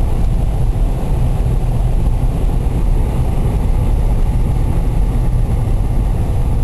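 Steady low rumble inside a car's cabin: engine and road noise, even throughout.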